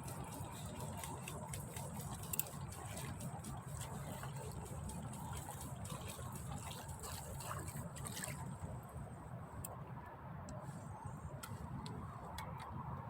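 Steady trickling, running water with many small sharp clicks and taps over it, the clicks thinning out about two-thirds of the way through.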